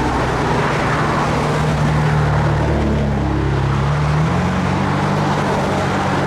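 Car engine and road noise heard from inside a moving car, with a steady low hum whose pitch steps up about four seconds in as the engine speeds up.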